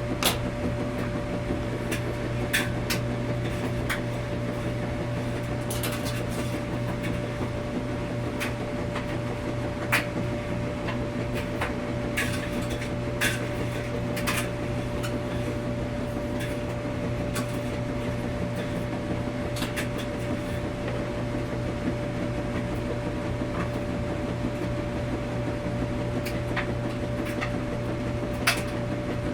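Washing machine running with a steady hum and a constant low tone, with a few sharp clicks and knocks scattered through it.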